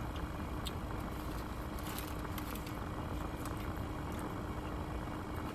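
Steady low background rumble with a constant hum, and a few faint crisp clicks of chewing and handling food, clustered about two seconds in.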